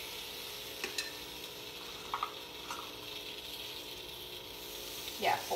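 Cinnamon roll dough sizzling steadily in the hot, oiled cups of a bubble-waffle pan as pieces are set in, with a few light taps and clicks about one and two seconds in.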